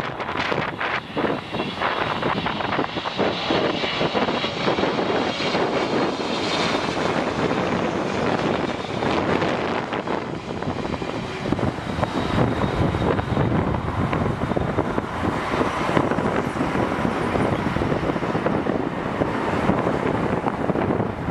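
Jet airliner's engines running loud and steady as it passes, with a high whine over the roar during the first several seconds.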